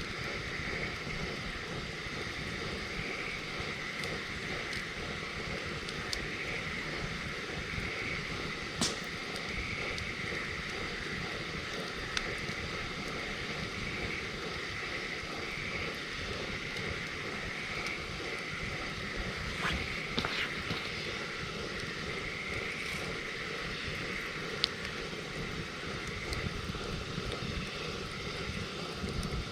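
Wood campfire burning, with a few sharp crackles and pops from the wood over a steady hiss.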